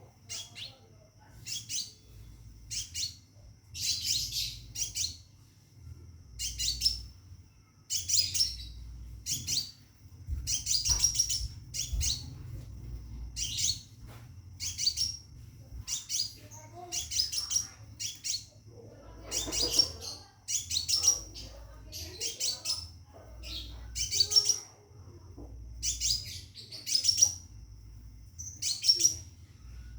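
Scarlet minivet (sepah raja) calling from a cage: short, high chirping phrases repeated about once a second, which the uploader takes for calling to a female to mate. A faint low hum sits underneath.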